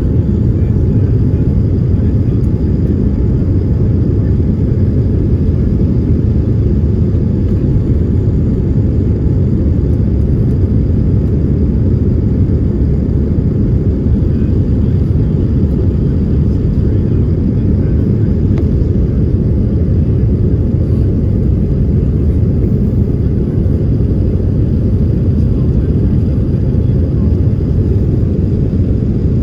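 Steady low rumble of a passenger airliner's engines and rushing air, heard from inside the cabin, with a faint high whine above it.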